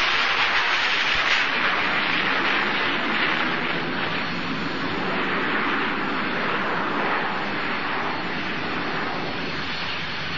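Messerschmitt Me 262's twin jet engines heard as a loud, steady rushing noise that eases slightly over the seconds.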